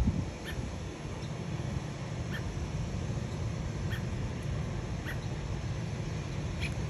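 Baby birds peeping: about five short, high chirps spaced a second or more apart, over a steady low rumble.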